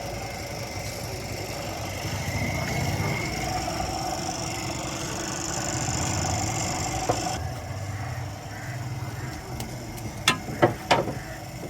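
Suzuki Cultus engine running with a steady low rumble. A few sharp metallic clinks come about ten seconds in.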